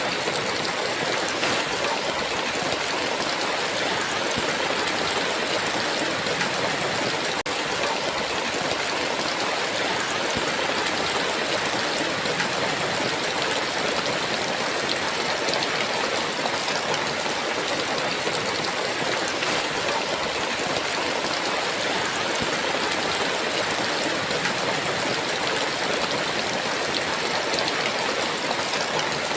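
Heavy rain falling, a steady, unbroken downpour hiss.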